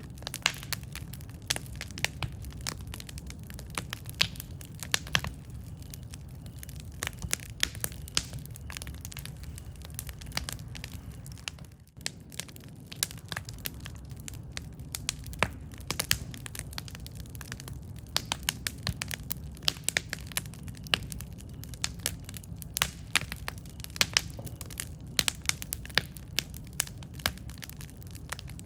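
Wood campfire crackling: a steady low rumble of burning with frequent irregular sharp pops and snaps. The sound dips briefly about twelve seconds in.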